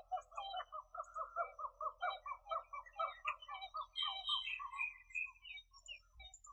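Birds calling: a fast run of repeated notes, about five a second, for several seconds, with scattered higher chirps over it.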